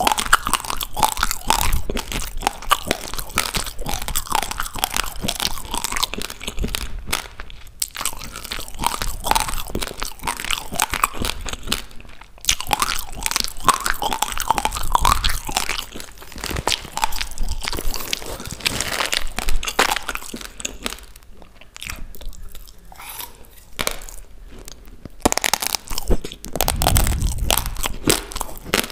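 Close-miked chewing of a mouthful of raw, uncooked rice grains: a dense run of small, hard crunches and cracks, with a few short pauses.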